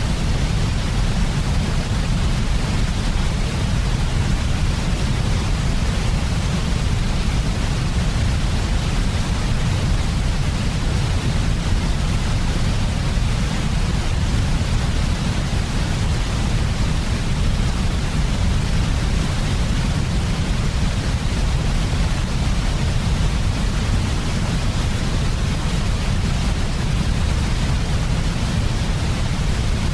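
Steady, unchanging white noise for a baby's sleep, with a stronger low rumble under an even hiss.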